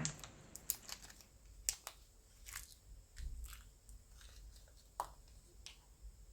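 Faint crinkling and small irregular clicks of a small plastic parts bag being handled as a sticker sheet is taken out of it.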